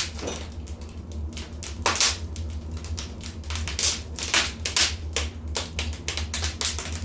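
Wood fire crackling: irregular sharp pops and snaps, a few louder ones about two seconds in and again around four to five seconds, over a steady low hum.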